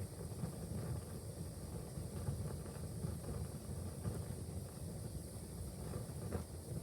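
Wood fire burning in a fireplace: a steady low rumble with a few faint crackles, one a little louder near the end.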